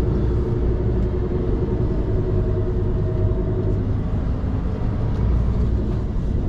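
Scania P360 XT truck's five-cylinder diesel engine running steadily with road rumble on a downhill stretch.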